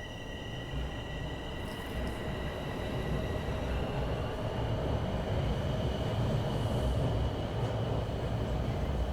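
Subway train running, its low rumble growing steadily louder. A steady high-pitched whine fades out about halfway through.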